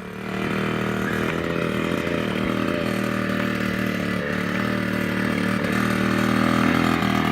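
Kawasaki KX65 dirt bike's 65cc two-stroke single-cylinder engine running steadily in first gear, getting a little louder about six seconds in.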